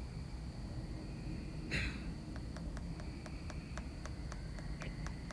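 A short, sharp breath close to the microphone about two seconds in, then a steady ticking at about four ticks a second over a low background rumble.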